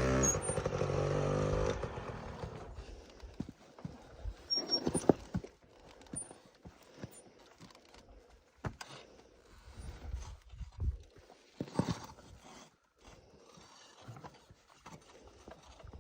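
Dirt bike engine running at low revs, fading out about two seconds in, followed by faint, scattered knocks and scuffs.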